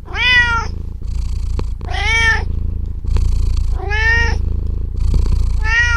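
Domestic cat meowing four times, about every two seconds, each meow rising then falling in pitch, over a steady low rumble.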